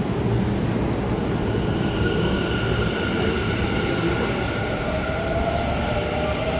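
Tobu 50050 series electric train pulling out and running past, with a steady rumble of wheels on rail. Whining tones from the traction motors come in about two seconds in, and a lower whine rises in pitch near the end as the train gathers speed.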